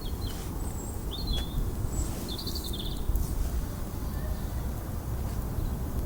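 Garden birds calling: several short high chirps and a brief trill in the first three seconds, over a steady low rumble.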